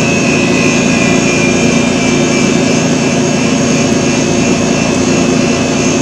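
A loud, steady, unchanging noise with a constant low hum and a high whine, of the kind a fan or other running machine makes.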